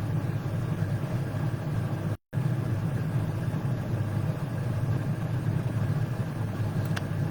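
Steady low hum, broken once a little over two seconds in by a split-second complete dropout of the audio.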